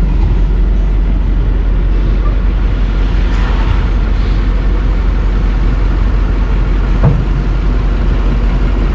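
Diesel engine running steadily with a heavy low rumble, and a single sharp knock about seven seconds in.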